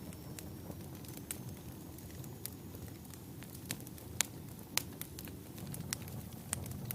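Wood fire burning in a fireplace: a steady low rumble of flames with scattered sharp crackles and pops, the loudest pops a little after four seconds in and again near five seconds.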